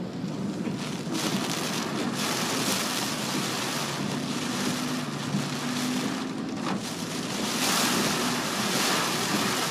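Typhoon winds buffeting a moving car, a steady rushing noise with low engine and road hum beneath; a gust swells louder near the end.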